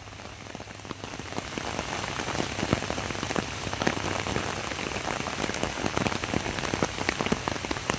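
Rain shower falling, with many individual drops ticking sharply on a nearby surface; it grows louder over the first couple of seconds, then stays steady.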